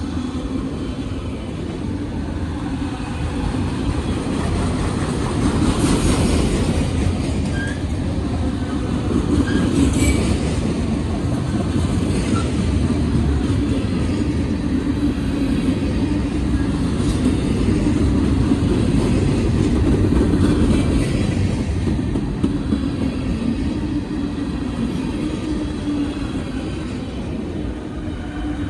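Freight train rolling past, a steady rumble of steel wheels on the rails with occasional knocks and faint brief wheel squeals.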